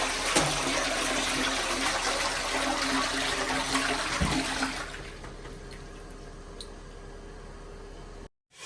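Toilet flushing as a test of its newly replaced flush valve: a loud rush of water that drops about five seconds in to a quieter steady trickle, then cuts off.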